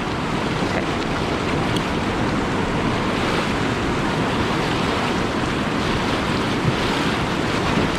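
River rapid rushing steadily: a continuous, even noise of fast whitewater.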